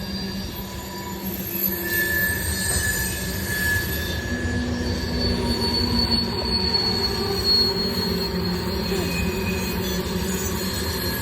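Fast train passing: a loud, steady rush of wheels on rail, with thin high wheel-squeal tones running over it.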